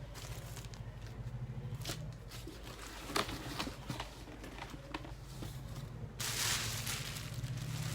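Packaging being handled: scattered light clicks and knocks, then a rustle of packaging from about six seconds in, over a low steady hum.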